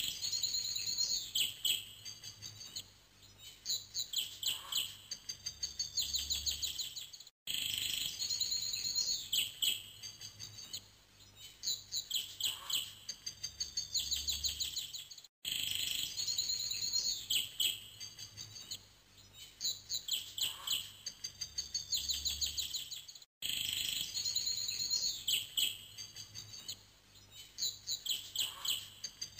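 Songbirds chirping and trilling in quick, repeated high phrases. It is a short recording looped about every eight seconds, with a brief break between repeats and a faint low rumble near the end of each.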